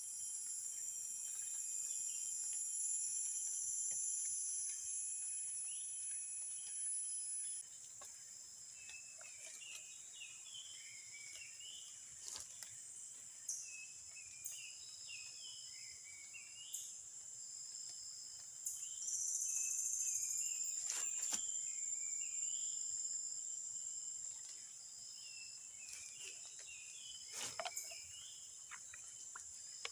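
Steady high-pitched insect chorus, with short chirping bird calls repeating over it and a few sharp clicks.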